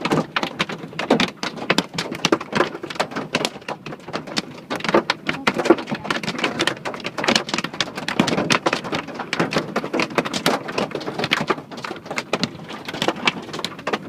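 Hailstones pelting down in a dense, continuous clatter of many sharp, irregular impacts.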